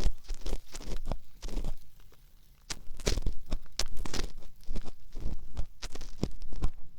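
Ear pick scraping and rubbing in the ear of a binaural dummy-head microphone, a string of irregular crunchy strokes close to the ear.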